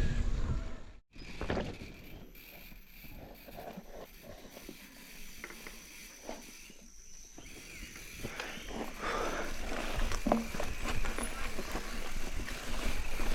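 Mountain bike being ridden on a rough trail: wind on the microphone and scattered clicks and rattles from the bike and its tyres. The sound cuts out briefly about a second in, stays quieter for several seconds, then grows louder again.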